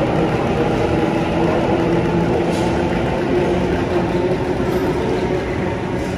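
Sydney Trains double-deck electric suburban train running past along an underground platform: a steady rumble of wheels and motors with a steady hum through it, echoing in the station. It gets a little quieter near the end as the rear cab goes by.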